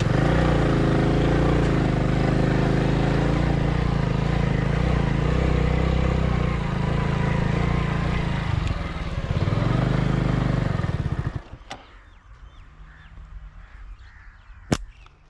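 Motorcycle engine running close by, its pitch rising and falling a little. It stops abruptly about eleven seconds in, leaving quiet outdoor air broken by a sharp click near the end.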